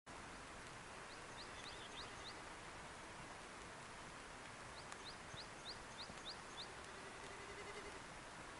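Faint steady hiss with a small bird calling over it: a run of short, quickly rising high chirps about a second in, and a longer run of about seven, three or four a second, around the middle.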